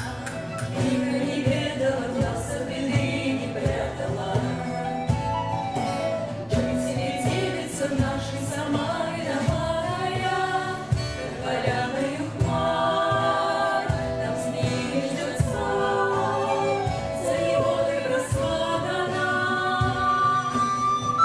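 Live folk-rock song performed by an amateur group: sung vocals over instrumental accompaniment with a steady beat.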